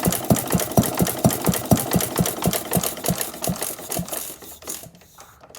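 1910 Paige cream separator engine running with an even beat of about four firings a second, which slows and fades out near the end as the engine is shut off and coasts to a stop.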